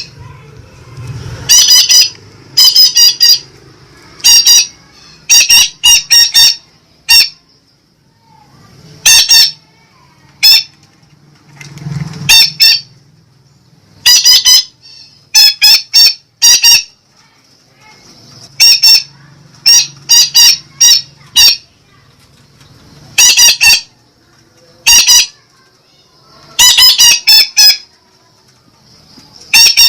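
Betet parakeet calling: loud, sharp squawks in quick runs of two to five, repeated every second or two with short pauses between runs.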